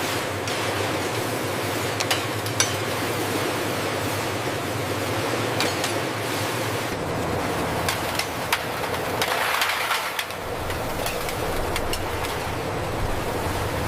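Steady factory machinery noise with a low hum, with scattered sharp clicks and knocks.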